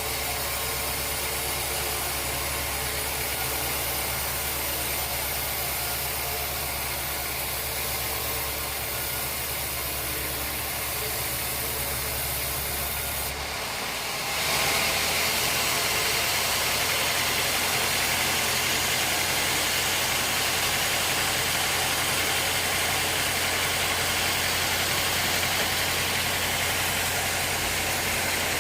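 Sawmill machinery running steadily with a low hum. About halfway through the sound shifts abruptly and grows louder.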